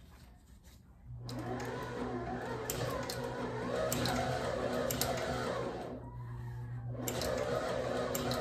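Claes leather patcher sewing machine running, stitching leather binding onto a baseball glove. It starts about a second in with a steady motor hum under the stitching, eases off briefly near six seconds, then stitches again.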